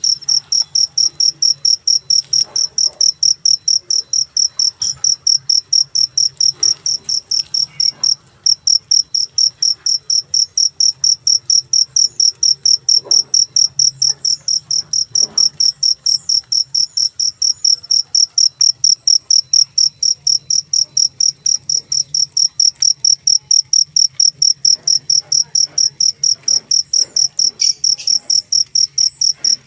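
A cricket (jangkrik) chirping loudly and shrilly in an even, rapid train of pulses at about three to four a second, with one short break about eight seconds in.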